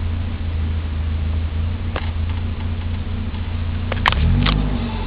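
Volvo 740 GLE's 16-valve four-cylinder petrol engine running steadily under way, heard from inside the cabin. A few sharp clicks come about two seconds in and again near the end, and the engine note briefly shifts in pitch about four seconds in.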